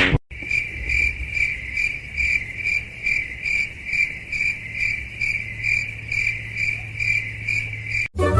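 A steady high-pitched chirping that pulses evenly about three times a second, starting just after the start and cutting off sharply near the end, over a faint low hum.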